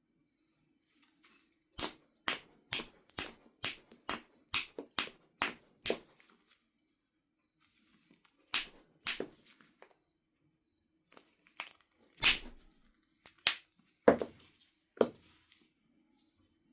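Sharp clicking taps of a knapping tool striking the edge of a Knife River flint biface. About ten come in an even run at about two a second, then three more, then a few scattered strikes with one heavier knock.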